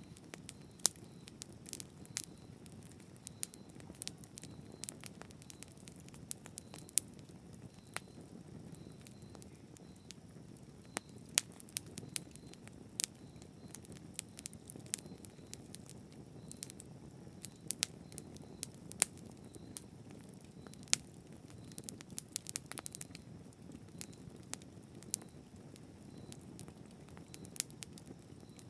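Campfire burning: frequent irregular sharp crackles and pops from the burning wood over a soft steady low rush of the flames.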